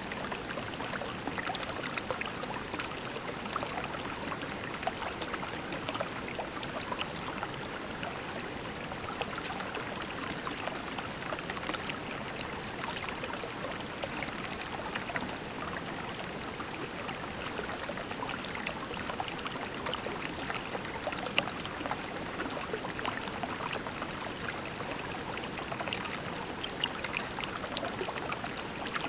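Shallow creek flowing over pebbles: a steady babble of water, with many small trickles and splashes.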